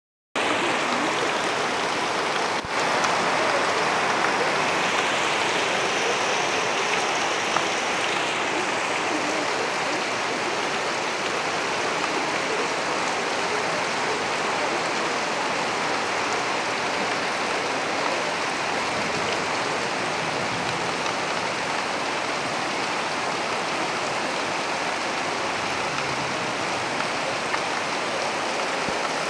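Heavy rain falling in a steady, even rush of water, with one brief click about two and a half seconds in.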